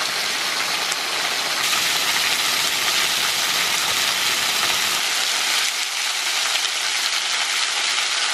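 Waterfall pouring and splashing onto rock close by, a steady rushing hiss.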